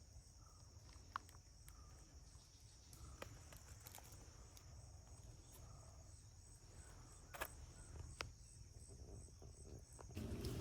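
Crickets or other insects chirring in a steady high drone with a faint even pulse, with a few sharp clicks. Just before the end, a louder rushing noise comes in.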